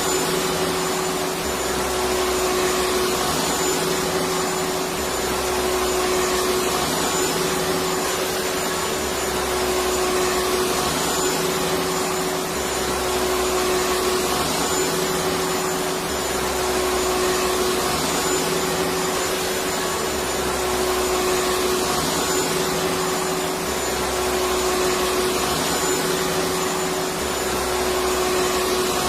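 Electric vacuum cleaner running steadily: a dense rushing hiss with a constant hum, and a low throb that pulses about every two seconds.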